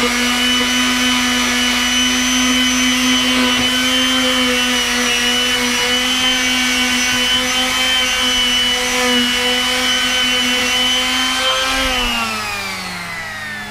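Makita random orbit palm sander running steadily at speed while sanding deck wood. A little before the end it is switched off and its whine falls in pitch as it spins down.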